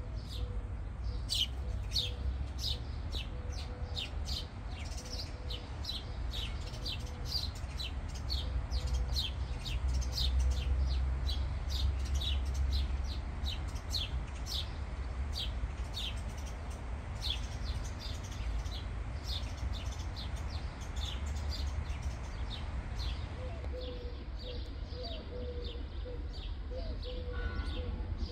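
A small bird chirping in a quick, even series of short high notes, about two or three a second, over a low steady rumble.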